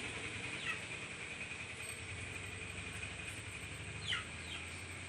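Steady background traffic hum with two short, high calls that fall quickly in pitch, one near the start and a slightly louder one about four seconds in.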